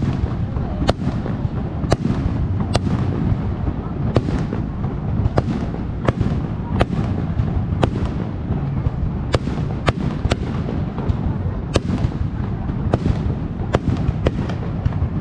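Aerial fireworks shells bursting in an irregular stream of sharp bangs, more than one a second, over a continuous low rumble.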